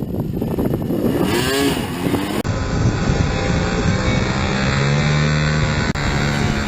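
Yamaha YZ250 two-stroke dirt bike engine revving up and down as it is ridden. About two and a half seconds in there is an abrupt change, after which the engine runs lower and steadier.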